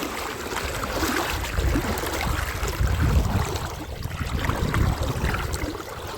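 Legs wading through a shallow river, the water swishing and splashing in uneven surges with each stride, over the steady flow of the stream.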